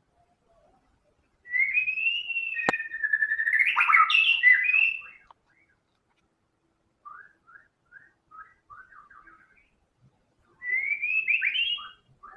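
White-rumped shama singing: a loud phrase of rich whistles and quick notes with one sharp click in it, then a run of softer short chirps, then another loud whistled phrase near the end.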